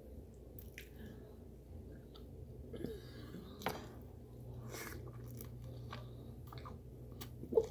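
A person chewing and biting a mouthful of food close to the microphone, with wet smacking clicks; a sharper smack about three and a half seconds in and another near the end.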